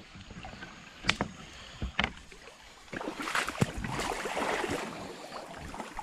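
Rubber boots wading through a shallow, muddy stream: sloshing and splashing steps that grow louder about halfway through, with a few sharp knocks along the way.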